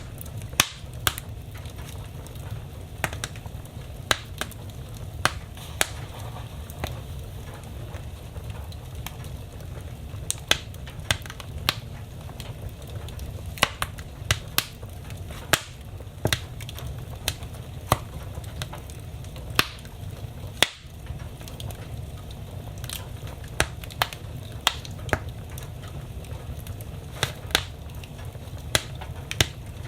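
Wood fire burning in a fireplace, crackling with irregular sharp pops, now and then several close together, over a steady low rumble of the flames.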